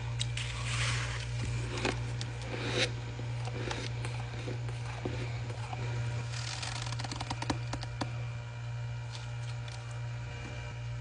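Ice being chewed: irregular crunching bursts and sharp crackling clicks, with a dense run of clicks about seven seconds in, over a steady low hum.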